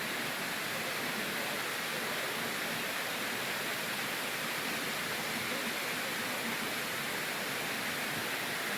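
Waterfall rushing, a steady even hiss of falling water that does not change.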